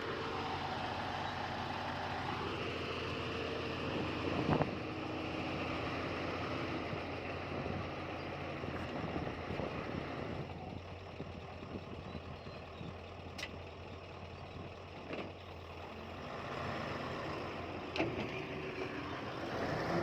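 Diesel engine of heavy earthmoving machinery running steadily, with a few sharp metallic knocks.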